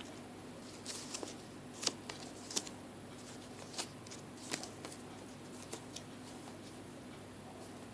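Hands working craft material for a handmade bird: irregular crisp rustles and clicks, about ten scattered through, over a faint steady hum.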